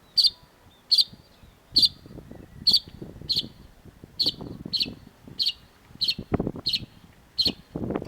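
Long-tailed shrike calling: about eleven short, sharp notes in a steady series, one every second or a little less, coming slightly quicker later on. A faint low rumble runs underneath.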